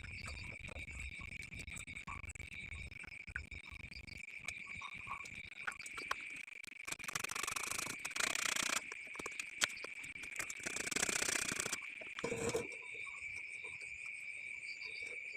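A steady, high-pitched insect trill throughout, with scattered light clicks and taps and two stretches of scraping noise, about seven and eleven seconds in.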